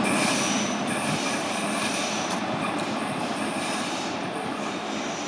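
A DB class 112 electric locomotive and its double-deck regional coaches rolling over station pointwork. There is a steady rumble of wheels on rail with faint high squeal from the wheels, and it grows gradually quieter.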